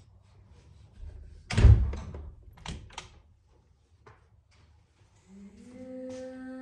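A heavy door slams shut, then comes two quick knocks on a door. Near the end a steady low tone with overtones begins.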